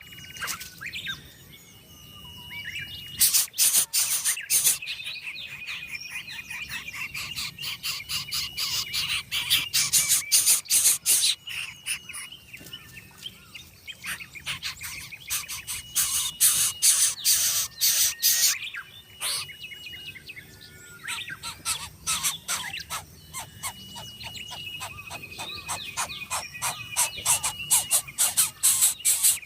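Coucal chicks in the nest making rapid raspy, clicking begging calls in repeated loud bursts, with thin whistled bird notes alongside.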